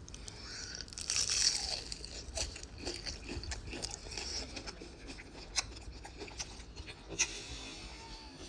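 Biting into a crispy fried chicken wing, a burst of crunching about a second in, then crunchy chewing with scattered sharp crackles.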